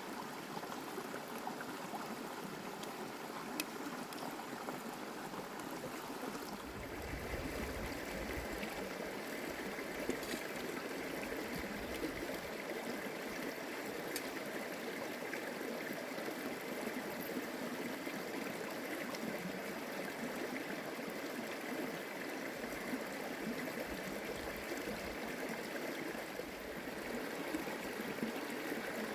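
Steady rush of flowing water, like a stream or brook, filling up a little about a quarter of the way in.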